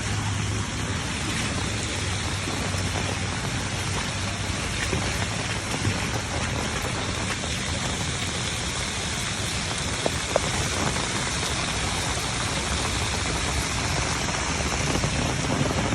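Steady heavy rain falling and splashing on surfaces, with a couple of faint ticks about ten seconds in.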